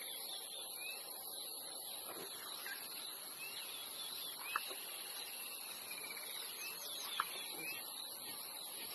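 Wild birds chirping and whistling in short, scattered calls over a steady high-pitched hiss, with two sharp clicks, about 4.5 and 7 seconds in.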